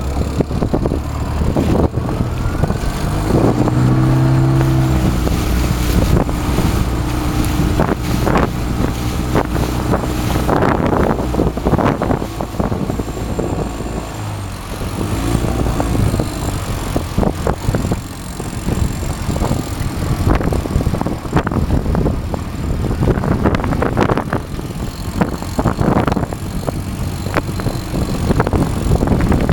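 Strong wind buffeting the microphone, with frequent flaps and knocks. A steady hum sounds from a few seconds in for several seconds.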